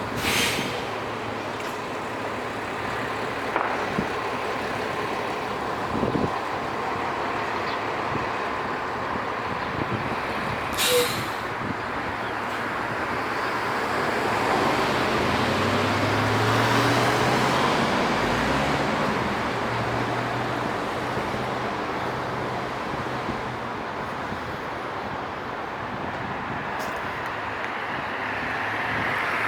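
Downtown street traffic: a steady wash of passing vehicles. A heavy vehicle's air brakes hiss briefly twice, near the start and about a third of the way in, and a low engine drone rises out of the traffic around the middle before fading again.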